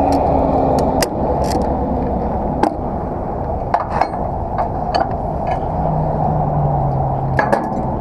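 A heavy truck's diesel engine running steadily, with sharp metallic clicks and clanks from hitch hardware being worked.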